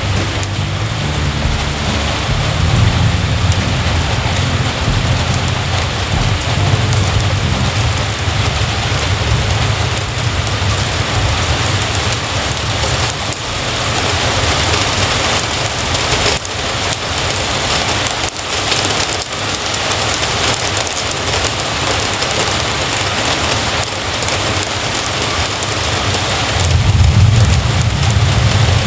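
Heavy rain falling steadily, with a low rumble of thunder in the first few seconds that swells again near the end.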